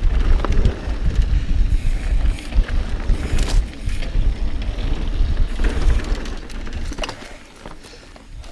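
Mountain bike riding a rough trail: wind buffeting the camera microphone and a low rumble of tyres, with sharp clicks and rattles from the bike over bumps. The rumble drops off about seven seconds in as the bike slows.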